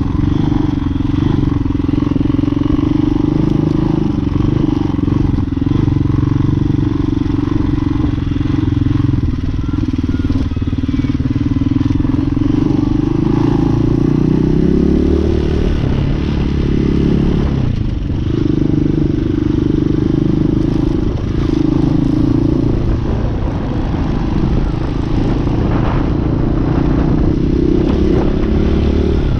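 Hawk 250 dual-sport motorcycle's single-cylinder engine running under way at a steady pace. Its pitch climbs and then falls in the middle, dips briefly a few seconds later, and rises again near the end.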